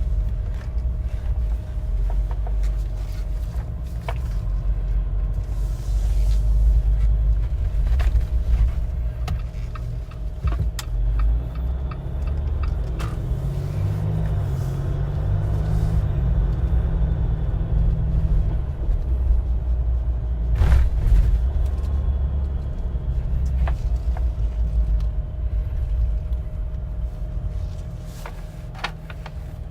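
Cabin sound of a 2021 Jeep Wrangler's 3.0-litre turbo-diesel V6 and drivetrain on the move: a steady low rumble of engine and road, with scattered knocks and rattles as it drives over bumps. About halfway through the engine pitch rises and falls briefly.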